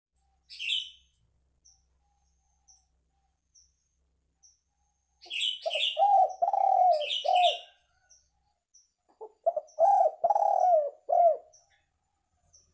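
Spotted dove (tekukur) cooing: two phrases of several low coo notes, the first about halfway through and the second near the end. High, short chirps of a smaller bird come just before and during the first phrase.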